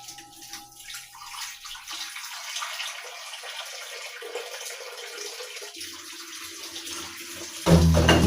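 Running water, a steady hiss, with background music fading out at the start and acoustic guitar music coming back in loudly near the end.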